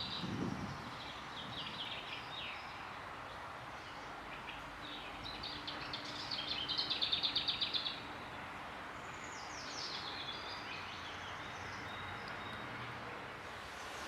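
A songbird singing in short phrases, the loudest a fast run of repeated notes about halfway through, over a steady background hum of outdoor noise.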